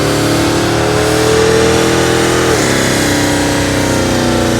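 A car engine held at high revs, its pitch climbing steadily, dipping sharply about two and a half seconds in, then climbing again, over a loud hiss. This is the sound of a tyre-smoking burnout.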